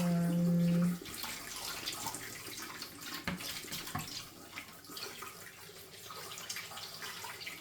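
Tap water running over and through a plastic washing-machine detergent drawer as it is rinsed out, with a few light knocks of the drawer being handled. A steady hum lasts about a second at the start.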